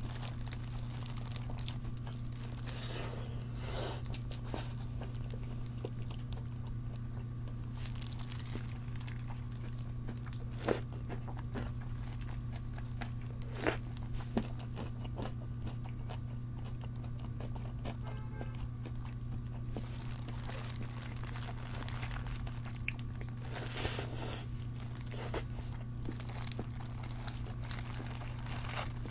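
Close-miked crunching and chewing of crisp-coated fried chicken: bites and crackles come in scattered clusters, with a few sharp crunches in the middle, over a steady low hum.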